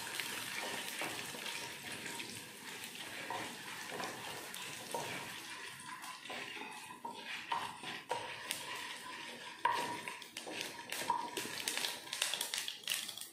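Mustard seeds, chana dal and urad dal sizzling in hot oil in a pan while a wooden spatula stirs them. Sharp pops of spluttering mustard seeds come more and more often through the second half.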